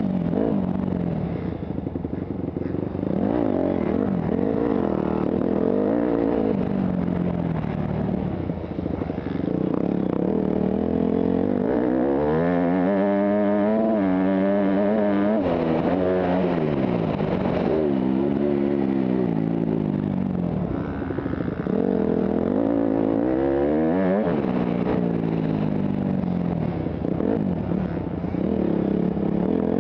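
Motocross motorcycle engine under race load, its pitch climbing and dropping again and again as the rider accelerates, shifts and backs off, heard from the rider's helmet.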